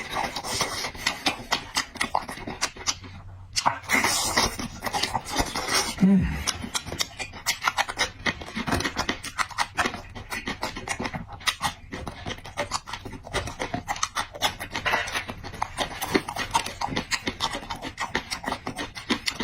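Close-miked chewing and lip-smacking as a person eats: a dense, irregular run of short mouth clicks and smacks.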